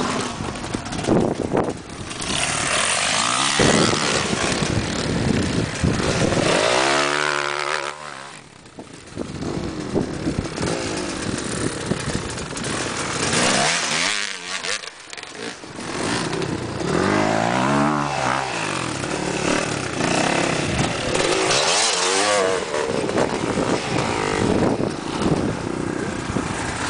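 Dirt bike engines revving and riding, their pitch rising and falling several times as the bikes accelerate and pass.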